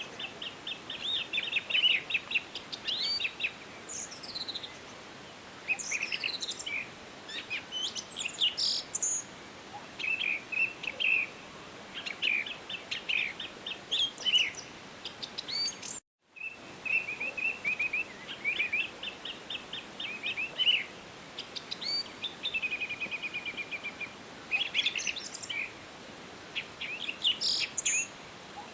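Songbirds singing and calling: rapid chirped trills and repeated chirps, with some higher whistles that slide downward, over a faint steady hiss. The sound cuts out completely for a moment about halfway through.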